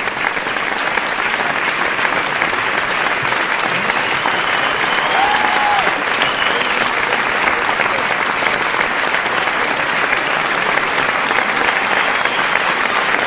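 A crowd applauding steadily, dense clapping without a break, with a couple of brief steady high tones about five to six seconds in.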